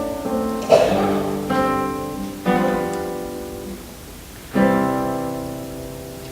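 Slow instrumental music: a handful of chords struck on guitar, each left to ring. The last chord comes about four and a half seconds in and fades out.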